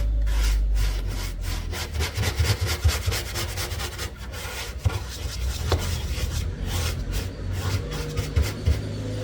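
Quick, irregular scraping strokes of a hand tool being worked against a hard surface, over a steady low hum.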